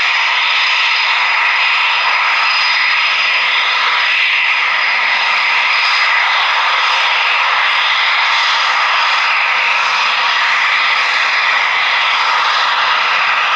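Eurofighter Typhoon jet engines running steadily: a loud, even rush with a steady high whine on top, holding the same pitch throughout.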